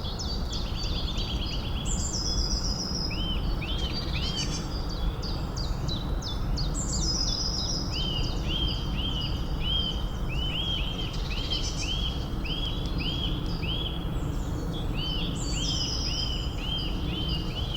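Forest birdsong: short arched chirps repeated in quick runs, with a fast falling high trill every few seconds, over a steady low background rumble.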